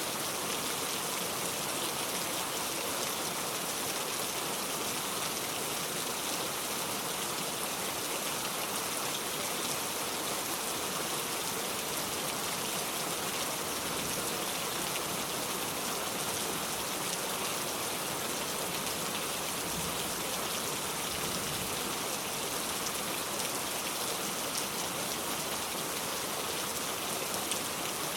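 Steady rain falling, an even hiss of many fine drops on a surface, with no thunder or other sounds.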